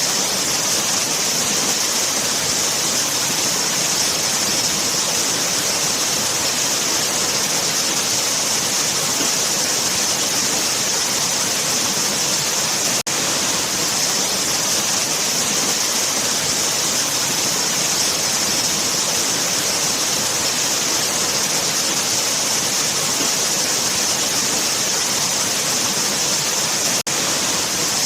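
Waterfall: a steady, dense rush of falling water with a bright hiss, unbroken apart from a momentary dip in level about halfway through.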